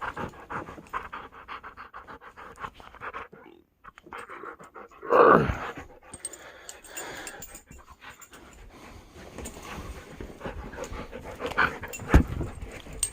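Dog panting rapidly, with one loud vocal sound about five seconds in that falls steeply in pitch, and a knock near the end.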